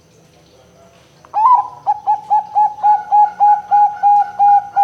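Zebra dove (perkutut) song: after about a second of quiet, an opening note and then a fast, even run of about a dozen short repeated coos, about four a second.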